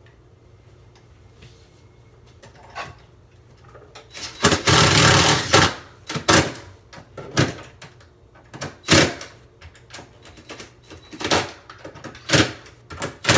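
A power screwdriver driving in the last screw of a fridge door hinge: one longer run, then a string of short bursts about a second apart as the screw is snugged down.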